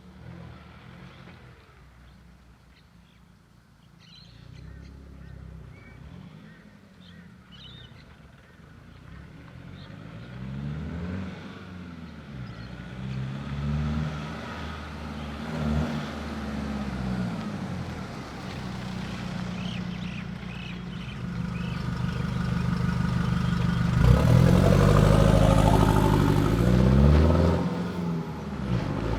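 Nissan Navara D22's 2.5-litre YD25 turbo-diesel running through a 3-inch exhaust, the revs rising and falling again and again as it grows steadily louder, loudest over the last few seconds.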